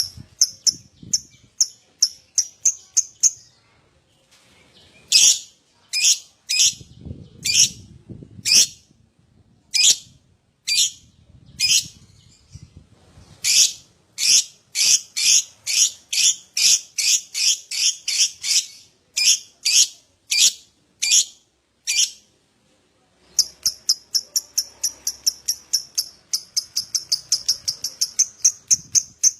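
Lovebird calling: sharp, high, shrill chirps in irregular series, then, starting about 23 seconds in, a fast unbroken run of calls several a second, the chattering 'ngekek' song.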